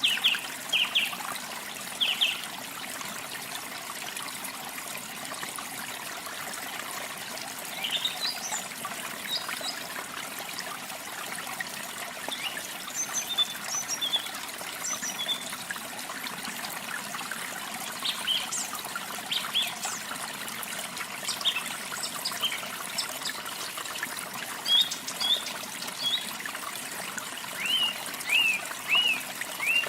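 Steady trickling of falling water, with songbirds chirping over it in short, quick phrases that come and go throughout.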